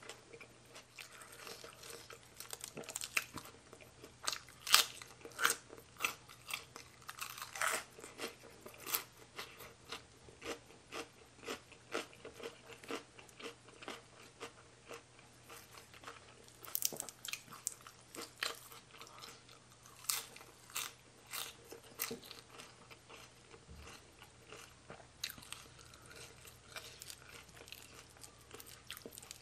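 A person chewing and crunching fried fish balls and spicy mixed salad, with many short, sharp crunches.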